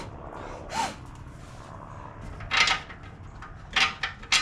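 Mower deck blade spindles and parts being handled and set down: a series of short, sharp knocks and clanks, the loudest near the middle and two close together near the end.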